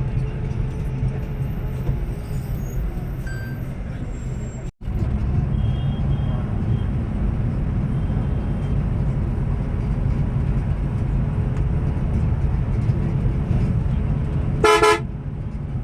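Steady low rumble of a moving bus on the highway, engine and road noise together, with one short, loud horn blast about a second before the end. The sound cuts out for an instant about five seconds in.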